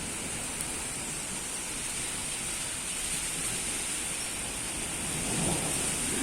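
Steady hiss of rain during a thunderstorm, with a low rumble of thunder swelling about five seconds in.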